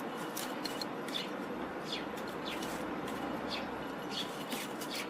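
Small birds chirping: short, high calls at irregular moments, roughly one every second, over a steady outdoor hiss.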